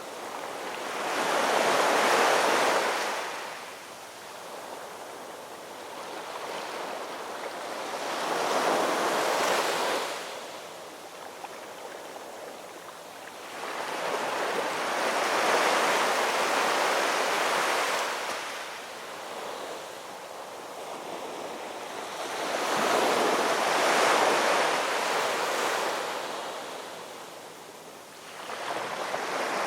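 Gentle ocean waves washing in: four surges of surf about seven seconds apart, each swelling and fading over a few seconds, with a fifth rising near the end.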